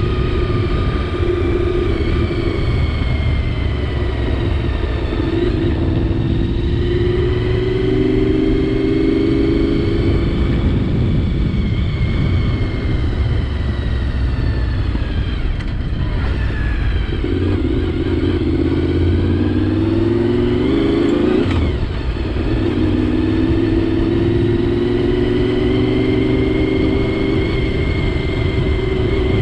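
Honda VFR750's V4 engine pulling through the gears, its pitch climbing in each gear and dropping at each shift, about three times. A steady rush of wind noise on the helmet-mounted microphone runs underneath.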